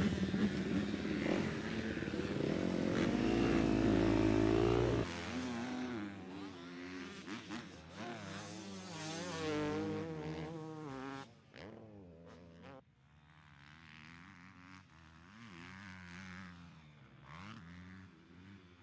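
Motocross bikes running on the track, their engines revving up and down. The engines are loud for the first five seconds, then cut suddenly to fainter, more distant engine noise that drops away again near the end.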